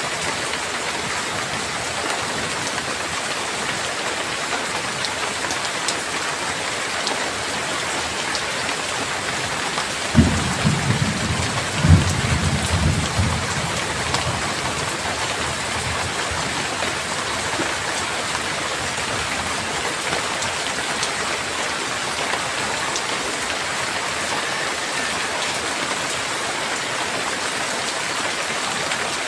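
Steady, heavy rain falling. About a third of the way in, thunder breaks with a sharp crack, a second, louder crack follows a couple of seconds later, and a low rumble dies away over the next few seconds.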